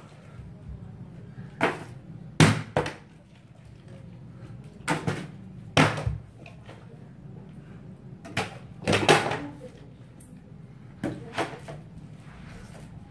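A flipped bottle landing on a hard surface: about ten sharp knocks spread out irregularly, some in quick pairs as it bounces or tips over.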